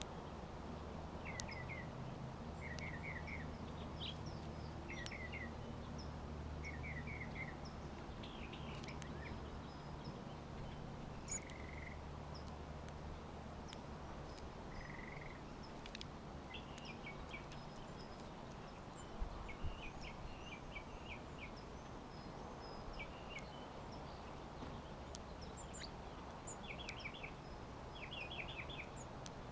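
Songbirds chirping at a backyard feeder: short, quick trilled chirps repeated on and off, over a steady low hum that fades about halfway through.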